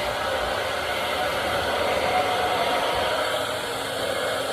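Handheld hair dryer running steadily on high: an even rush of blown air with a faint motor whine in it.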